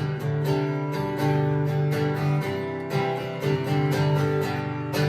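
Live acoustic guitar strumming chords in a steady rhythm through an instrumental break with no singing.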